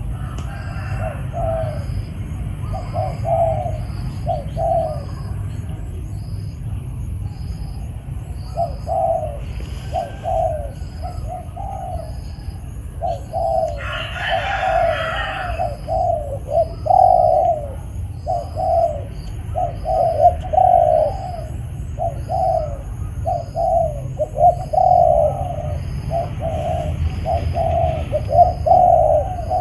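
Spotted doves cooing: short, low coo notes repeated in phrases, sparse in the first seconds and coming almost continuously from about 13 s on. A steady low rumble of wind on the microphone lies under them.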